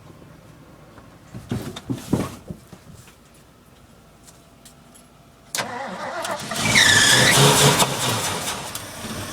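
Ford F-350's carbureted engine on a hard start after sitting a year: a couple of knocks, then about five and a half seconds in it suddenly catches and runs loudly with a high whine dipping and rising, before it begins to die away near the end.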